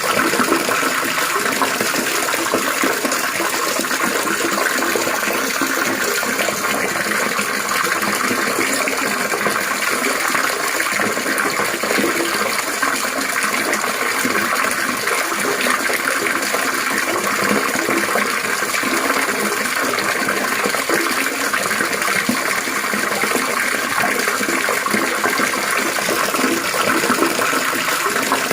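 Water trickling and splashing continuously, a steady, even babble with no breaks.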